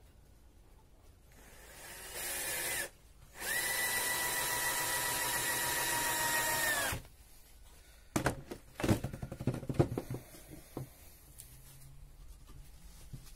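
Power drill running in two bursts, a steady whine that winds up, stops for a moment, runs on for about three and a half seconds and then winds down, while working into pallet wood during hive-box assembly. Several sharp knocks and clatters of wood and tool follow.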